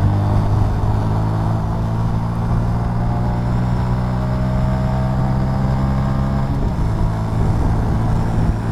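Honda Super Cub C125's single-cylinder engine pulling under acceleration, geared lower with a one-tooth-larger 37-tooth rear sprocket. Its pitch climbs slowly, then the tone changes about seven seconds in.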